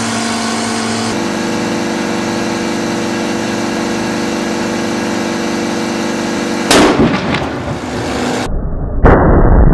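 A motor-driven air compressor hums steadily as it overinflates a basketball, its pitch shifting about a second in. About seven seconds in, the overinflated ball bursts with a loud bang. Near the end comes a second, louder bang, heard muffled.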